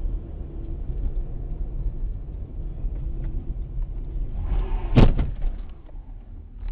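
Road and engine rumble inside a moving car, recorded by a dashcam, broken about five seconds in by one loud collision impact that fades out over the next second.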